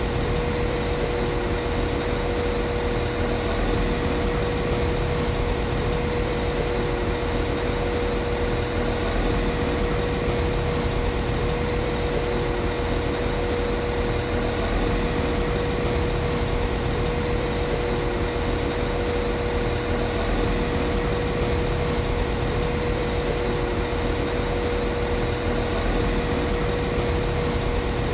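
Class 195 CAF Civity diesel multiple unit's diesel engine idling steadily, an even drone with a constant mid-pitched whine over it.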